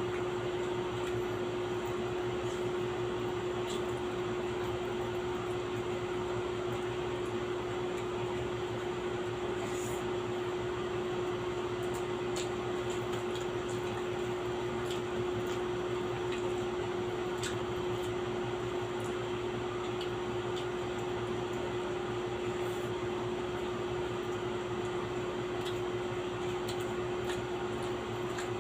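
Steady electric appliance hum with one constant mid-pitched tone, over faint scattered clicks and taps of people eating.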